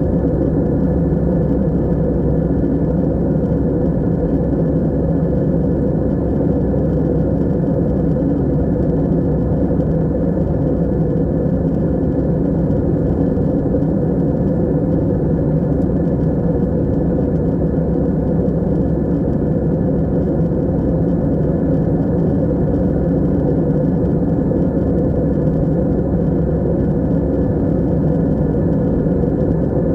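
Aeroplane in flight, a steady low engine and airflow drone that holds at the same level throughout.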